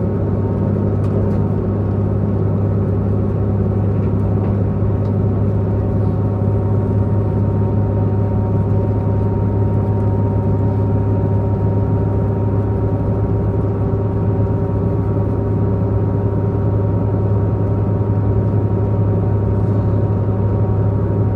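Diesel engine of a diesel multiple-unit Tze-Chiang express train running steadily under way, heard from inside the passenger car at a side window: a constant deep hum with a strong low tone and several steady higher tones.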